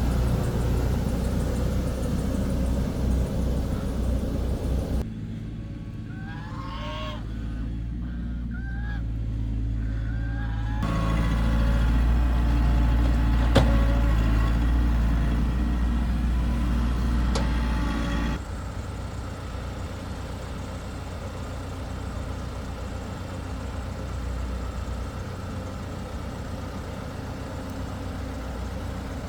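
Heavy diesel machinery, an excavator or dump truck, running with a low steady rumble. The sound changes abruptly several times. In one stretch of about six seconds the engine fades back and a series of short rising bird calls is heard, and later there are two sharp knocks.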